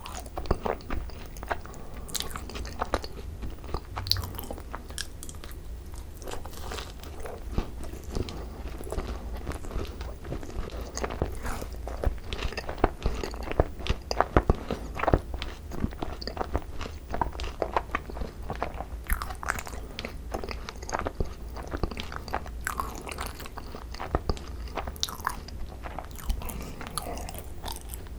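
Close-miked chewing and biting of Korean overfilled macarons (ttungcaron), with the crisp shells crunching and many small crackling clicks throughout.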